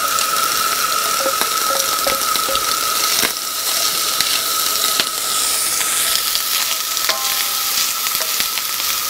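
Diced bacon sizzling as it fries in a steel wok over a gas stove, with stirring and a couple of sharp clicks about three and five seconds in. A steady high tone runs underneath.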